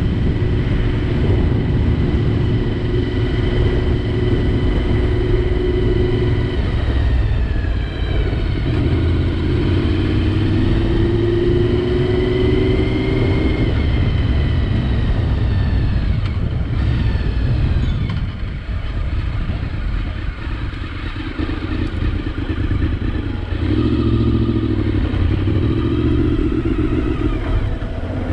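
Honda VFR750's V4 engine running under way on the road, heard from a helmet camera with wind rumble underneath. The engine note holds steady, rises in pitch as the bike accelerates about a third of the way in, eases off and goes quieter past the middle, then pulls again near the end.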